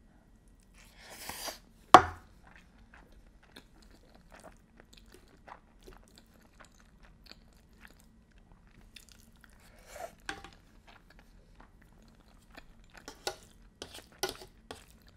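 Close-miked chewing of a mouthful of carbonara pasta, with many small wet mouth clicks. A short hiss comes about a second in, then a single sharp clack about two seconds in, the loudest sound. A few quick clicks of the fork and chopsticks against the pan come near the end.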